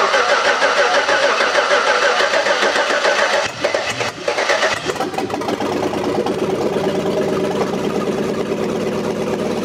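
Chevrolet Avalanche V8 engine cranking on the starter, then catching about four seconds in and settling into a steady idle. This is the first start after the cylinder heads were replaced with remanufactured ones.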